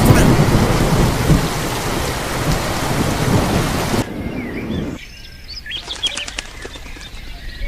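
Heavy rain with rumbling thunder that cuts off abruptly about four seconds in; a few short bird chirps follow over a quieter background.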